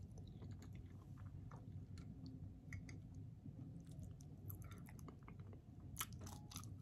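Faint close-miked chewing of soft food, with small wet mouth clicks and smacks scattered throughout, and a sharper click about six seconds in as a forkful of green beans goes into the mouth.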